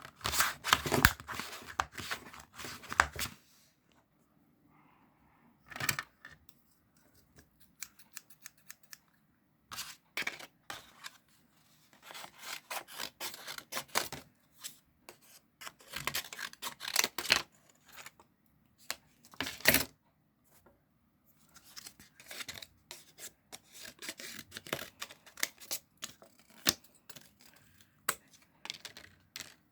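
Irregular handling noises close to the microphone: sharp clicks, taps and rustling in uneven clusters, broken by short quiet gaps.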